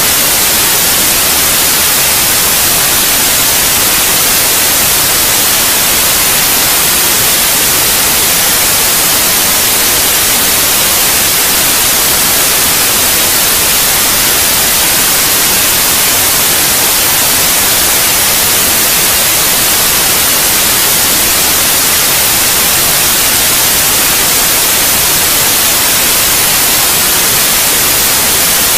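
Steady, loud white noise: an even, unchanging hiss, brightest in the high range, played as a sleep sound for babies.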